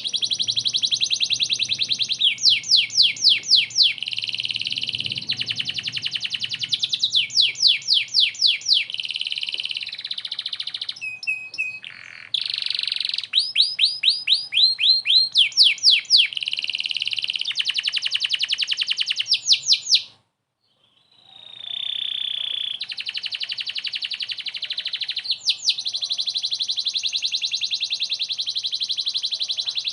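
Canary singing a long, continuous song of rapid trills and rolls, with one short break about twenty seconds in.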